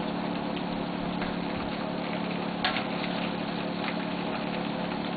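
Chicken pieces deep-frying in hot oil in a wok, sizzling steadily, over a steady low hum. There are a few light knocks, about three times.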